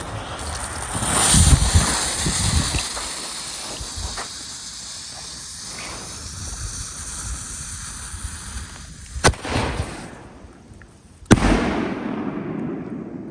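2-inch (50 mm) aerial firework shells going off: a loud booming burst about a second and a half in, then two sharp bangs about two seconds apart near the end, the last trailing off in a long echo. A steady hiss runs between the bangs.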